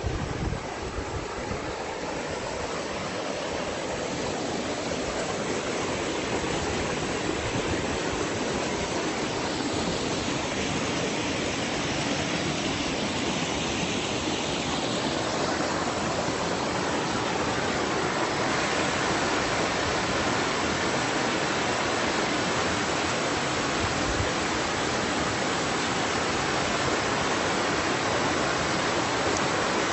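Steady rush of a fast-running stream, a dense wash of water that grows a little louder over the first few seconds and then holds.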